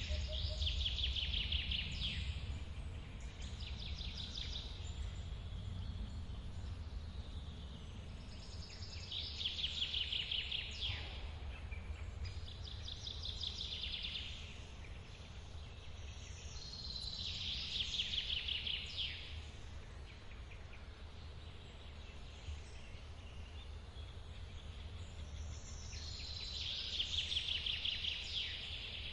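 A songbird repeats the same short song four times, about every eight seconds: a high note gliding down into a fast trill. Underneath is the steady low rush of a forest waterfall.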